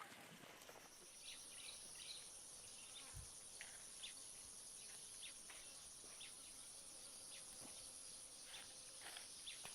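Faint insect chorus: a steady high-pitched trill starts about a second in and holds, with short chirps scattered over it.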